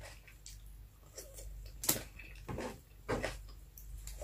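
Close-up eating sounds: chewing with wet lip smacks and mouth clicks, a string of short sharp smacks about every half second to second, as rice, fried milkfish and cucumber salad are eaten by hand.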